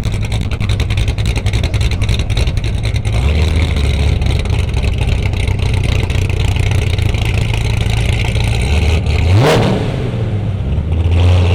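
Car engine running with a deep, steady rumble, then revved sharply once about nine and a half seconds in, the pitch sweeping up and falling back.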